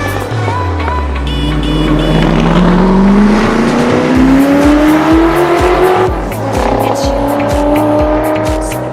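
A race-car engine accelerating hard, its pitch climbing steadily for about six seconds, dropping at a gear change and climbing again, over background music with a steady beat.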